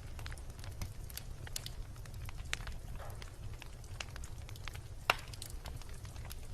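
Wood bonfire crackling, with scattered sharp pops and one louder pop about five seconds in, over a low steady rumble.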